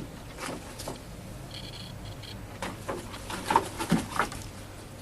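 Light scattered pattering and scuffling from a kitten playing with a peacock, in clusters and loudest near the end. A brief high, steady two-tone chirp comes about one and a half seconds in.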